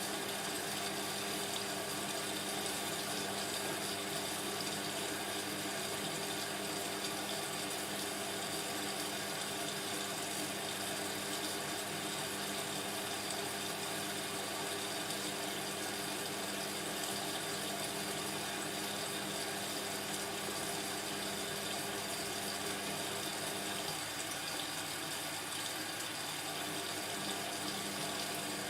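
Indesit washing machine running partway through a cotton wash cycle: a steady hum from its motor or pump, with water moving inside.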